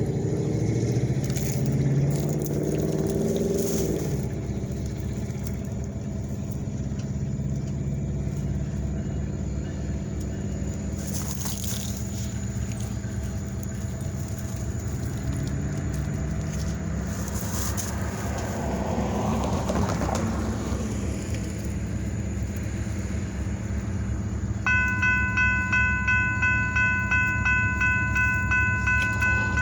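Kiamichi Railroad EMD SD40-2 diesel locomotives running, with a steady low engine drone and rolling train rumble. About 25 seconds in, a bell starts ringing with quick, evenly repeated strokes.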